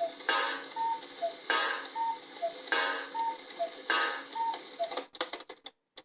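Cuckoo clock calling "cuckoo": a breathy two-note whistle, high then lower, repeating about every 1.2 seconds, five calls in all. It stops about five seconds in, with a quick run of mechanical clicks, and the clock's ticking follows.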